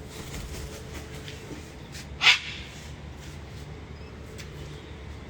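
Sulphur-crested cockatoo giving one short, very loud, harsh squawk about two seconds in.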